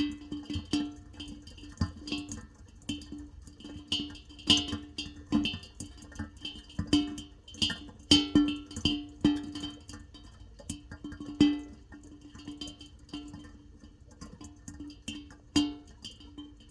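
Water drops falling irregularly onto a resonant surface: sharp knocks every third of a second to a second, each ringing at the same pitch, some much louder than others.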